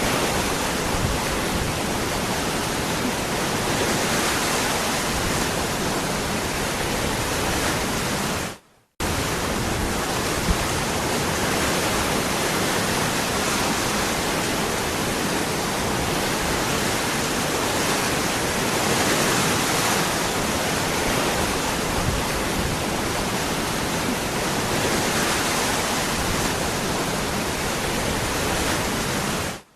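Waterfall with a steady rush of falling water, broken once by a sudden dropout to silence lasting under half a second about nine seconds in.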